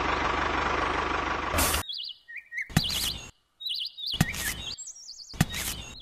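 A steady rumbling noise with a low hum cuts off abruptly about two seconds in. High bird chirps and tweets follow in short warbling phrases, broken by sharp clicks and brief gaps.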